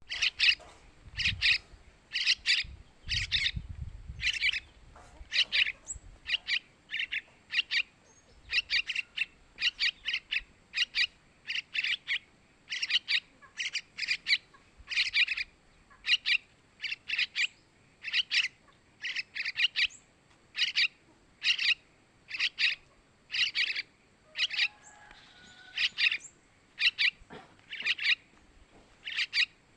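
Yellow-vented bulbul (trucukan) chicks calling: short, high chirping calls repeated about once or twice a second without let-up. A faint low rumble sits under the first few seconds.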